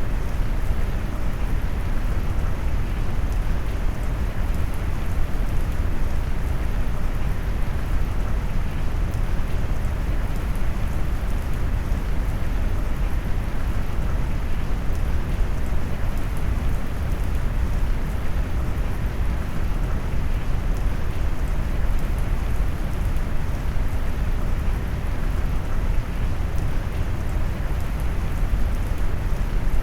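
Steady rain mixed with brown noise, a deep, even rush weighted heavily to the bass with little high hiss.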